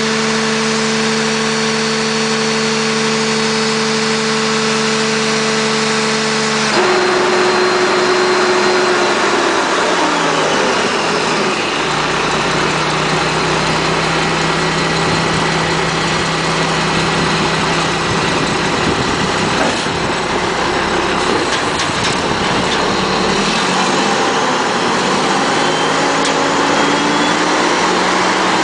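Mack front-loader garbage truck's diesel engine idling steadily, then about seven seconds in the sound changes abruptly to a louder, rougher running with a pitch that glides down, and a low rumble through the middle stretch.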